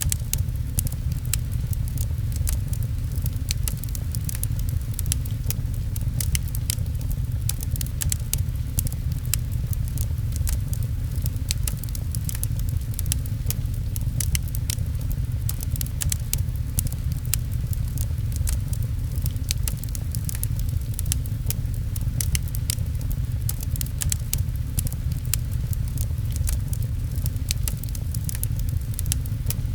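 Steady rain with a constant low rumble, under the crackle of a wood fire: many sharp pops and snaps at irregular intervals.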